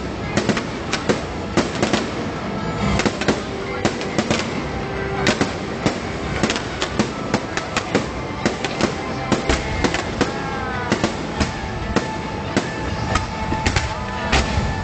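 Fireworks going off in rapid succession: a dense run of sharp bangs and crackles, several each second.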